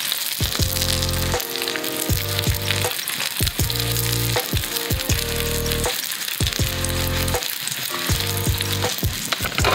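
A meat patty sizzling steadily in hot oil in a small frying pan, with soft background music underneath.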